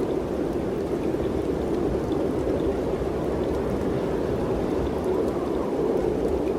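Mountain wind blowing steadily: a continuous rushing noise with a low rumble underneath.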